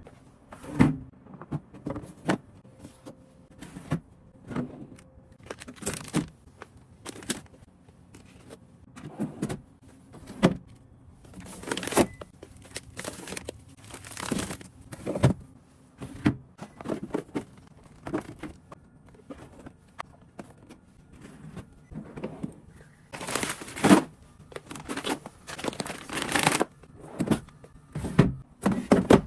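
Irregular rustling and crinkling of plastic packaging, with short knocks and clicks of items being handled and set down, as groceries are unpacked.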